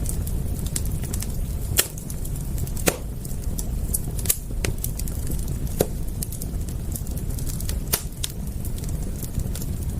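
Wood fire crackling, with irregular sharp pops, a few much louder than the rest, over a steady low rumble.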